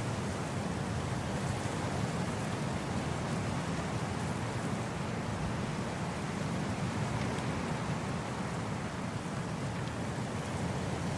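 Wind blowing steadily across grass: an even, unbroken rushing with no gusts or breaks.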